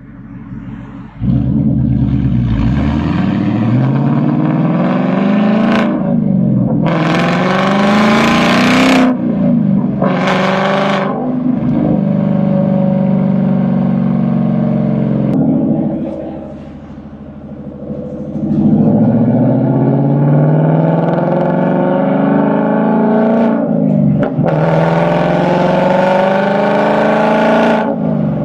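Ford Mustang engine running hard. It comes in loud about a second in, then its pitch climbs and drops back again and again as it revs up. Short bursts of hiss come in a few times over the engine.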